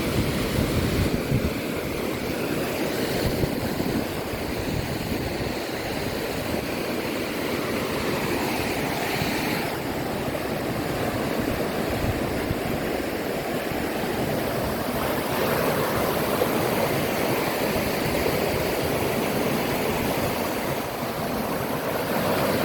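Steady rush of running water, an even noise that holds throughout, with some wind rumble on the microphone in the first few seconds.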